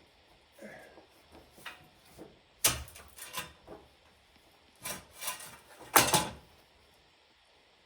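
Wooden concrete form boards being worked loose from a freshly poured slab: wood rubbing and scraping, with several sharp knocks and bangs, the loudest about six seconds in.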